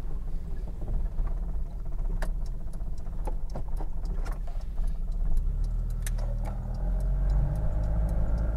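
Cabin sound of a 1969 Opel Rekord C 1900 on the road: its 1.9-litre four-cylinder engine with a Solex carburettor runs with a steady low rumble, and scattered light clicks and rattles sound through the middle. About six seconds in the engine note rises and grows louder as the car accelerates, pulling cleanly without stumbling now that the carburettor is fixed.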